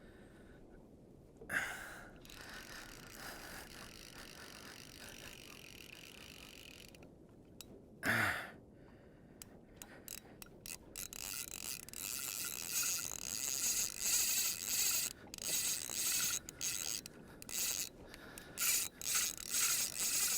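Fly reel's ratchet drag clicking in short, uneven spurts while a large fish is being fought, as line goes on and off the reel, growing busier from about halfway through.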